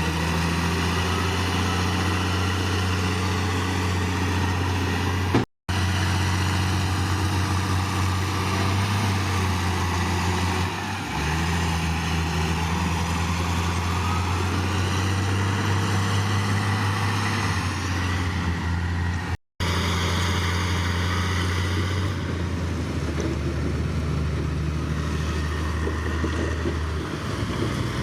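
Heavy earthmoving machine's diesel engine running steadily with a deep hum, its pitch shifting slightly now and then. The sound cuts out abruptly for a moment twice.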